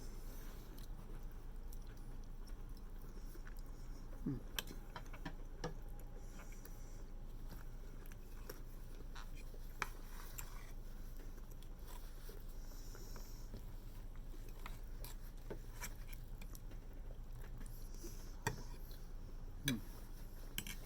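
Eating: quiet chewing with scattered sharp clicks and taps of cutlery and dishes, over a steady low hum.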